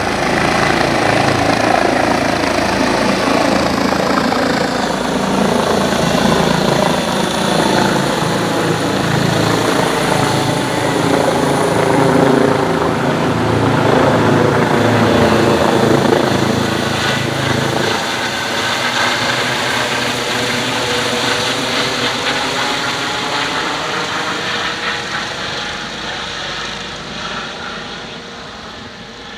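Rescue helicopter's turbine engine and rotor at full power as it takes off, loud and steady at first, then fading away over the last ten seconds or so as it flies off.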